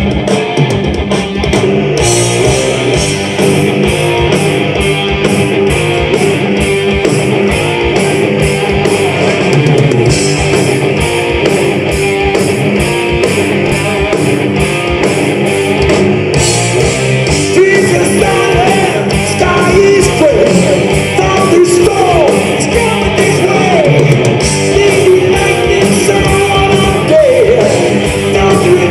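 A heavy metal band playing live: distorted electric guitars over a steady drum beat, with singing.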